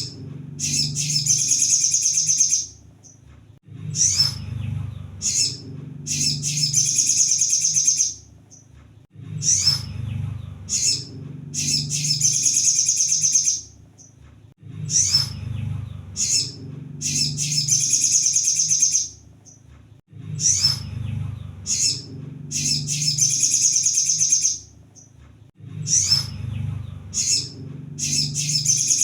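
Sunbird (kolibri sogon) song played as a lure recording. A few short high chirps lead into a long, fast, dense trill, and the same phrase repeats about every five and a half seconds.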